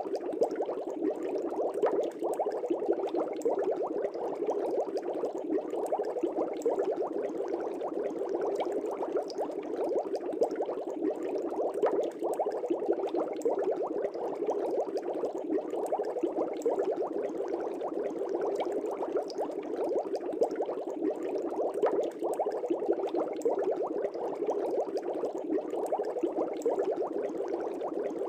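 Aquarium bubbles in a fish tank, bubbling steadily as a dense, continuous stream of small pops.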